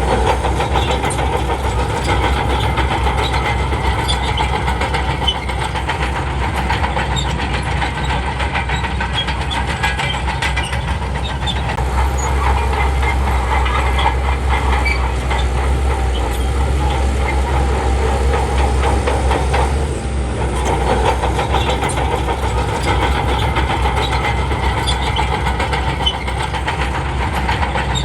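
Shantui crawler bulldozer working, its diesel engine running with a continuous clatter of steel tracks. The engine's low rumble grows heavier about twelve seconds in and eases again about twenty seconds in, as it takes and sheds load.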